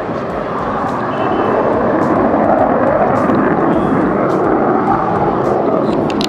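Jet aircraft flying a display pass: loud, steady jet engine noise that swells a little midway and eases slightly near the end.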